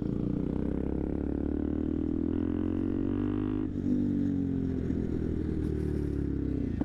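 Honda Grom's small single-cylinder engine running while riding at low speed, its pitch rising and falling with the throttle, with a short break about four seconds in.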